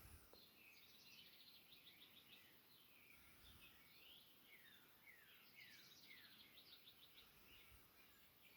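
Faint birdsong: a phrase of quick, falling chirps and trills at the start, and another about five and a half seconds in.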